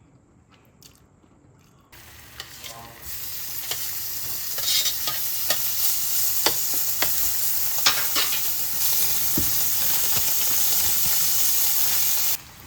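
Food sizzling in a hot pan: a steady hiss with scattered crackles that starts two to three seconds in and cuts off suddenly near the end.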